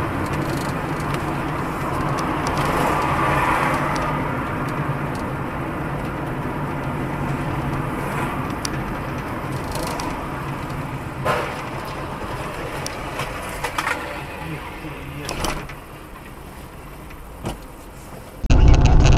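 Steady engine and road noise of a moving car as picked up by a dashcam, with a few light knocks about eleven to seventeen seconds in.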